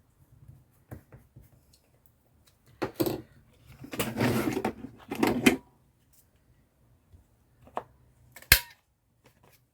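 Paper and craft materials being handled at a table: a few short bursts of rustling in the first half, then a single sharp knock, the loudest sound, late on.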